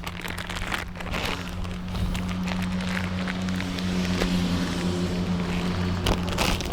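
A motor running with a steady low hum, with scattered light clicks over it.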